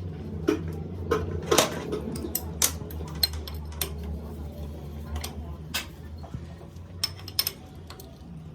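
Metal parts and hand tools clinking and tapping at irregular moments while a diesel injection pump is worked on, over a steady low hum.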